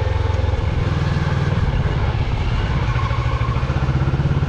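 Moto Morini X-Cape 650's parallel-twin engine running at low, fairly steady revs as the bike rides along a rutted dirt track.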